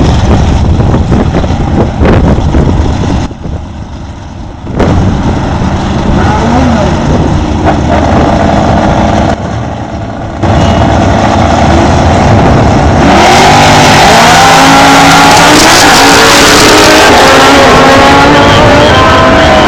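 Small-block Chevy 383 V8 of a drag-racing Camaro revving loudly, dropping off briefly twice, then running hard at full throttle from about two-thirds of the way in with its pitch climbing.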